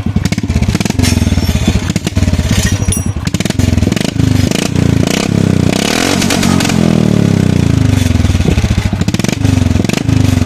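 Royal Enfield single-cylinder motorcycle engine running with the silencer removed, exhaust open at the header pipe. It idles with even, loud pulses and is blipped up and down several times in the middle before settling back to idle.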